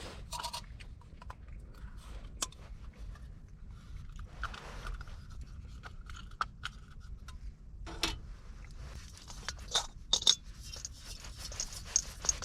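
Handling noise of things being picked up and set down: scattered sharp clicks, light knocks and scraping rustles, busiest about ten seconds in, over a steady low rumble.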